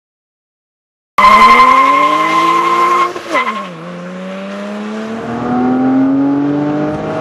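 Porsche 987 Cayman S flat-six through an A.W.E. Tuning cat-back exhaust, accelerating hard. The note cuts in suddenly about a second in and rises, drops sharply at a gear change about two seconds later, then climbs again more slowly. A steady high squeal sits over the first pull and stops at the shift.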